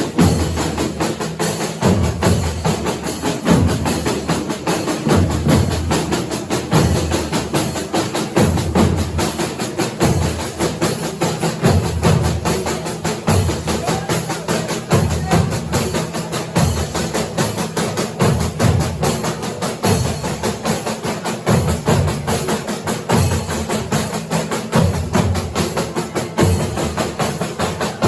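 Folia de Reis percussion playing a marching rhythm: regular bass drum beats under a dense rattle of snare and tambourine.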